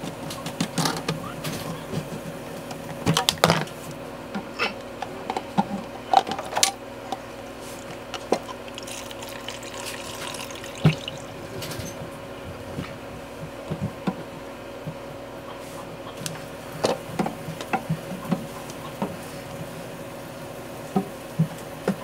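Short knocks and clicks of sink drain pipes being handled and worked loose. Water trickles from the pipes into a bucket briefly near the middle, over a steady hum.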